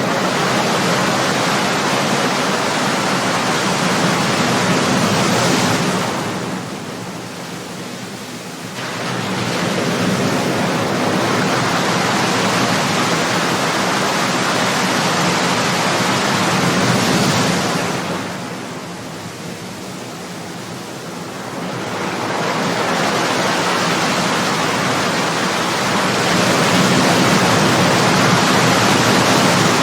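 Ocean waves breaking and washing on the shore in a continuous rushing surf, easing off in a lull twice before the next wave builds again.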